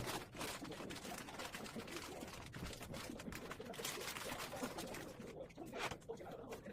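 A sleeping Pomeranian breathing and snoring softly, with a low, wavering purr-like rumble.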